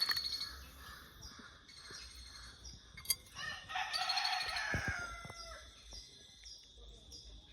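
Rooster crowing once, about halfway in, the call falling in pitch as it trails off, with small birds chirping.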